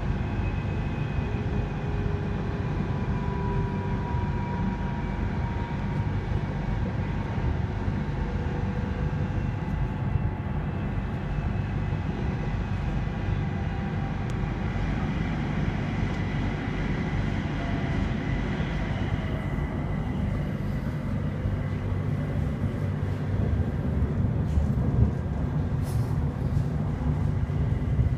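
Airport Rail Link electric train running between stations, heard from inside the car: a steady low rumble of wheels on track, with faint motor whines gliding slowly down in pitch. A few sharp clicks near the end.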